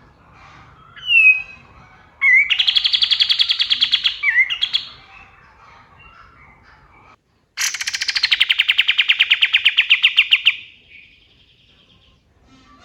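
Kapas tembak bird singing: a short falling whistle, then two loud, rapid rattling trills of a couple of seconds each with a pause between them; the second starts high and drops before fading out.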